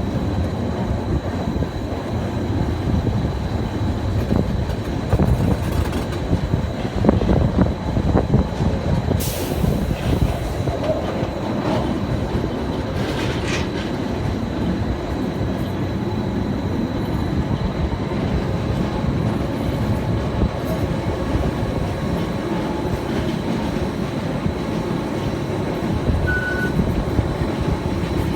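Electric Gornergrat rack railway train running with a steady rumble, with a couple of sharp clicks about a third of the way in and a faint steady high whine.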